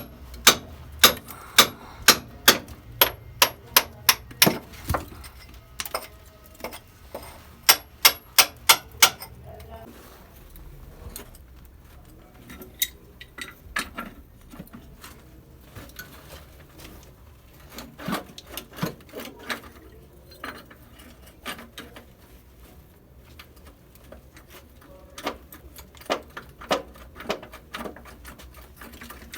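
Hammer blows on metal, about two sharp, ringing strikes a second for the first nine seconds, then scattered, lighter knocks.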